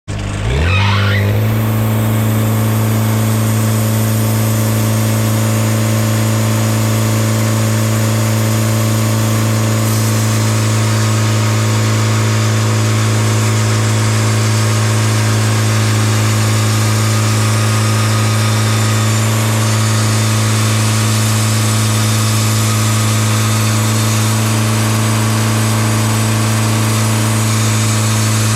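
Sawmill engine revving up quickly over the first second or so, then running at a steady high speed with an even hum.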